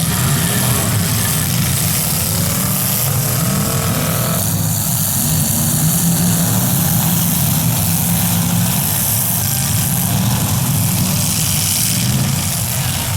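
Demolition derby cars' engines running steadily together, a dense low rumble without clear crash impacts.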